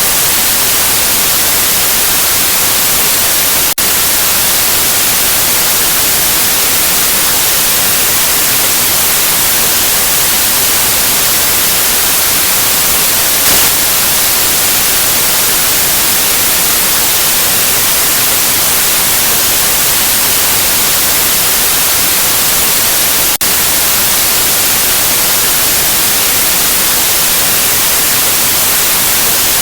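Steady, loud white noise: an even hiss across the whole range, brightest in the highs, broken only by two momentary dips, about 4 and 23 seconds in.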